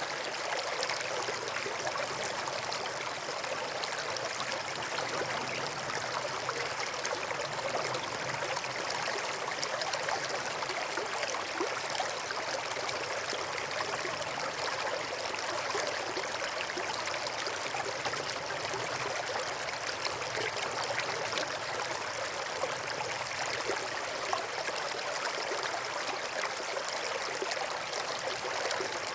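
Small brook flowing steadily, water running and trickling over stones in an even, unbroken wash.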